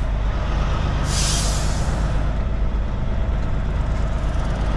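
Kenworth K200 cabover truck's engine running steadily, with a short air-brake hiss about a second in.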